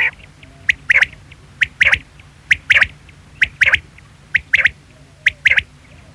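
Quail calling over and over: a three-note phrase, one short note then two quick notes close together, repeated about once a second.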